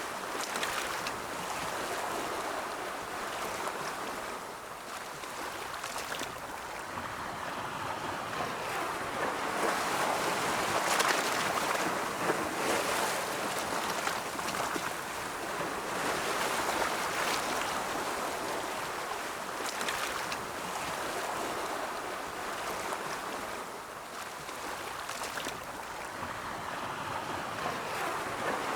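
Ocean waves rolling in and washing on the shore, a continuous hiss of surf that swells and eases every few seconds.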